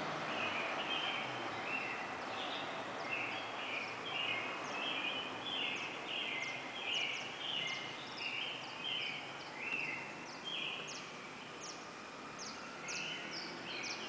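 Birds singing: many repeated short chirping notes and quick high sweeping calls over a steady background noise.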